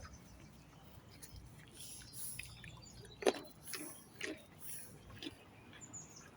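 Horses chewing hand-fed food: a few separate crisp crunches, the loudest about three seconds in, with soft rustling between them.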